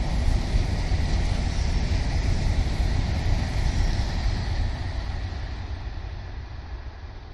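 Train running past on the track, a steady rumble that fades over the last few seconds as it moves away.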